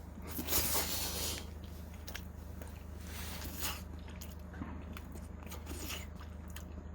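Someone biting into and chewing roast chicken close to the microphone: a loud crunchy bite about half a second in, another crunch around three and a half seconds, then smaller chewing crunches, over a steady low hum.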